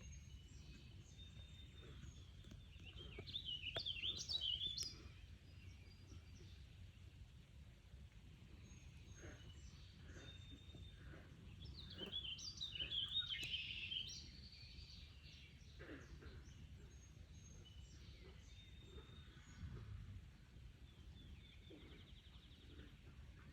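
Songbirds singing: a louder warbling song phrase about three seconds in and another about twelve seconds in, with scattered faint chirps between, over a low steady background rumble.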